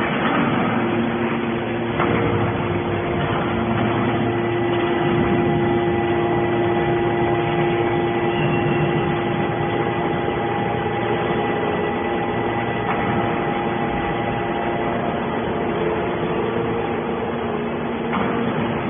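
Metal scrap baler's hydraulic power unit running: a steady machine hum with several held tones over it.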